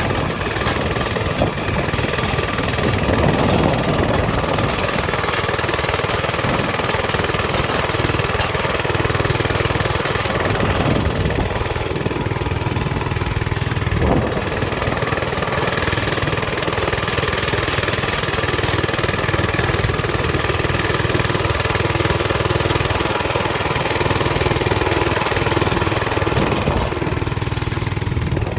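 Mini bike's small engine running continuously, with a steady rushing noise over it.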